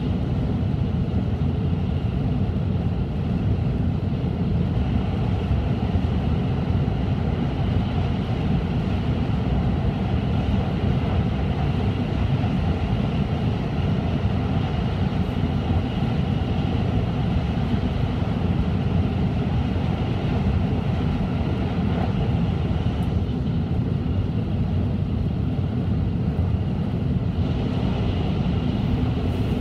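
Cabin noise of an N700-series Shinkansen running at speed: a steady rumble and rush of wheels, rails and air. Near the end the rush turns higher and fuller as the train enters a tunnel.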